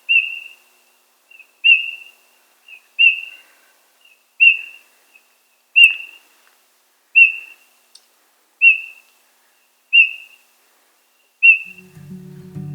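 Eurasian bullfinch giving its short, piping 'püh' call, about nine times, roughly once every second and a half. Low background music begins near the end.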